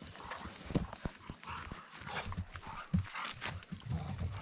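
Two dogs running and playing together, their paws landing in quick, irregular thuds on the ground.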